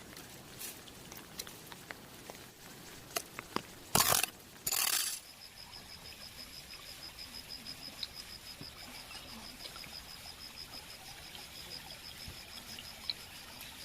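Scattered drips and ticks of rain water, broken about four seconds in by two short, loud rustling noises. From about five seconds on, a rapid, even, high-pitched chirping runs steadily.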